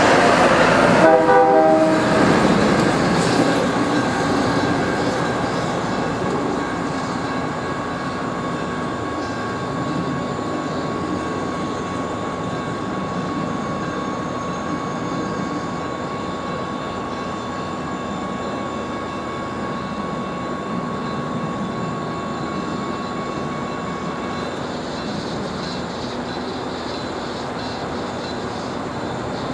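DCTA A-Train commuter train sounding its horn at a road crossing. The horn cuts off about two seconds in, and the train's rumble of wheels and engine carries on, easing down and then holding steady. A thin steady high tone runs alongside until near the end.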